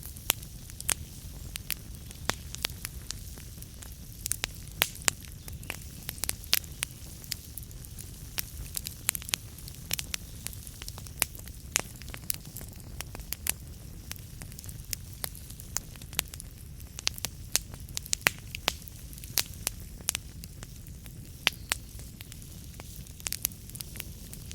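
Wood fire burning in a fireplace: irregular sharp crackles and pops from the burning logs, several a second, over a steady low rumble of the flames.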